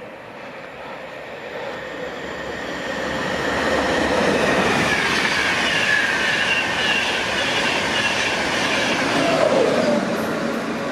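A train passing through the station. Its rail noise builds over the first few seconds and stays loud, with whining tones that fall in pitch as it goes by.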